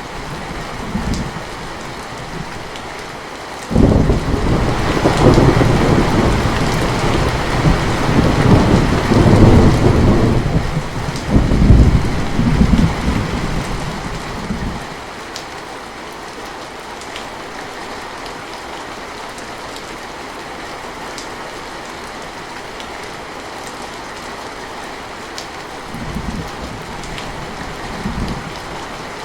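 Steady rain with a thunderclap that breaks in suddenly about four seconds in and rolls on for some ten seconds, swelling twice before dying away. Fainter, short rumbles come near the start and near the end.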